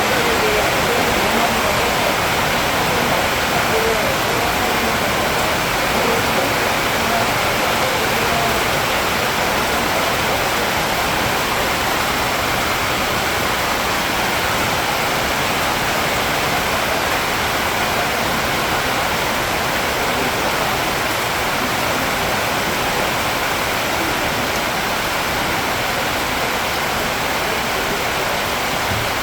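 Steady, even rushing noise that holds without a break or change.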